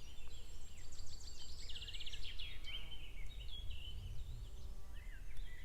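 Songbirds singing: a mix of chirps and slurred whistles, with a fast trill about two seconds in, over a steady low rumble.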